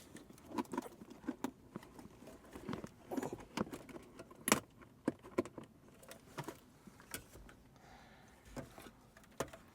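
Irregular clicks, taps and rattles of plastic parts and wiring connectors being handled as a car radio unit is worked back into the dashboard, with one sharper click about halfway through.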